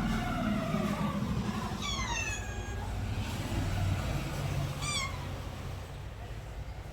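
Domestic cat meowing three times: a longer downward-sliding meow, a higher one about two seconds in, and a short one near the end. A steady low rumble runs underneath.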